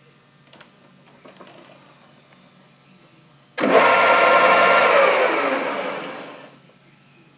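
Grizzly G4003G gearhead metal lathe started up suddenly, its motor and geared headstock running with a whine of several tones, then switched off and spinning down, the pitch and level falling away over about a second and a half.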